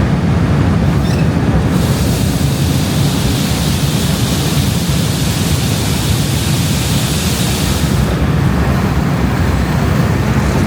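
Grain truck's engine running with a steady low rumble, and a loud rushing hiss laid over it for several seconds in the middle.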